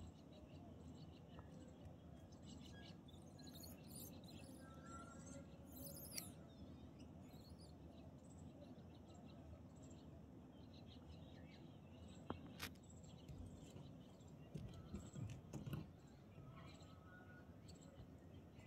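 Quiet background hiss with faint, scattered bird chirps. There is a single sharp click about twelve seconds in, and a few low bumps a few seconds later.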